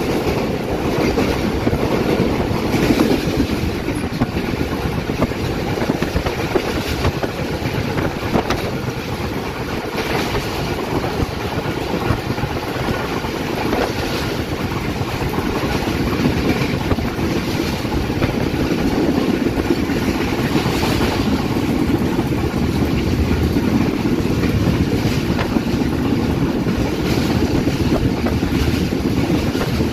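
Running noise of a moving train heard from on board: a steady rumble of wheels on the rails with wind noise and an occasional faint click.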